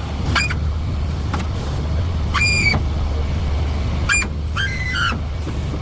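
Truck engine running steadily, with five short, high-pitched squeaks over it.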